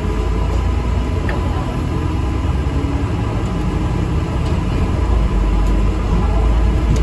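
ADL Enviro400 MMC double-decker bus heard from inside the cabin while under way: a steady low engine and road rumble that grows a little louder in the second half.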